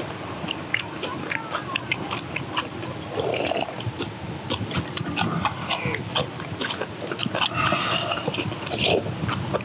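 Several people eating: chewing and crunching crisp kimchi with rice. Chopsticks click irregularly against stainless-steel bowls throughout.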